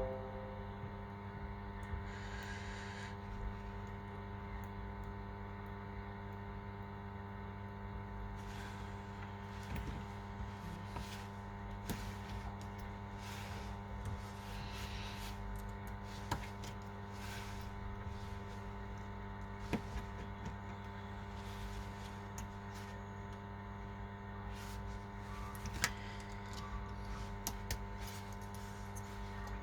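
Steady electrical mains hum, with scattered light clicks and brief scraping from small phone parts and tools being handled during an iPhone screen replacement.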